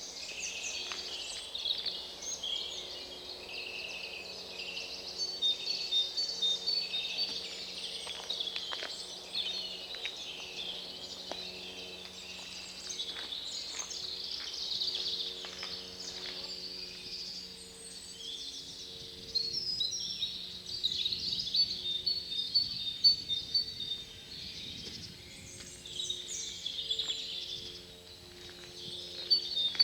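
A chorus of wild birds singing and calling together, a dense mix of chirps, trills and repeated notes throughout.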